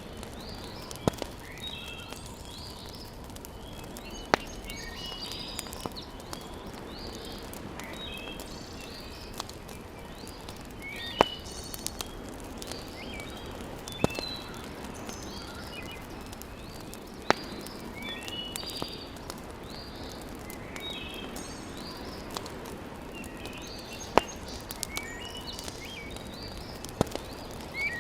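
Wood fire in a fireplace crackling, with sharp single pops every few seconds over a low, steady hiss. Birds chirp and sing throughout in the background.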